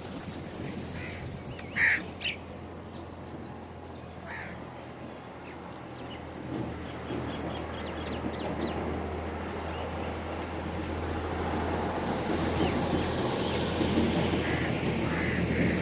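Birds calling in short harsh calls: the loudest comes about two seconds in, another follows near four seconds, and a run of calls comes near the end. Under them are a steady low hum and background noise that grows louder toward the end.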